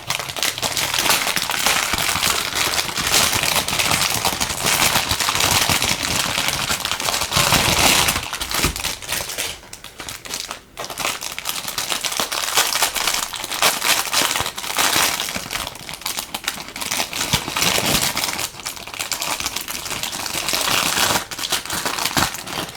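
Plastic packaging crinkling and crackling as it is handled and unwrapped, almost without pause, with brief lulls near the middle.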